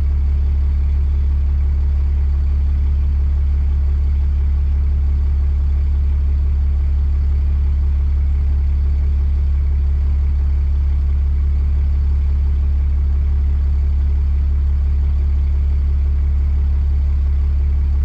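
6.7-liter Cummins inline-six turbo-diesel idling steadily while it warms up from cold. The owner suspects its factory injectors are going bad at 859,000 miles.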